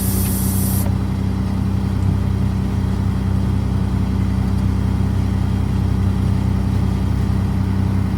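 Steady low machine hum, even in pitch throughout; a high hiss cuts off abruptly about a second in.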